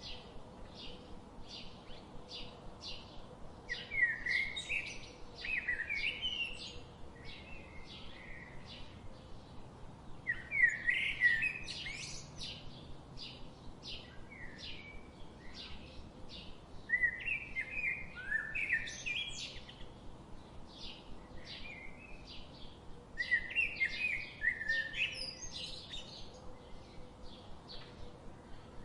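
Songbirds singing: one bird gives short high chirps, about two to three a second, without a break, while another sings a warbling phrase of two to three seconds four times, roughly every six seconds.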